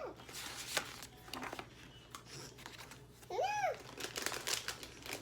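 Plastic snack packaging crinkling and rustling in short scattered bursts. About three and a half seconds in there is a brief high voice sound, a single tone that rises and falls.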